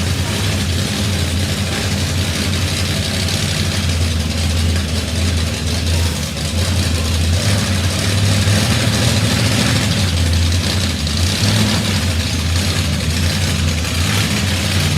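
A vehicle engine running steadily at a low, even pitch, with a constant rushing noise over it.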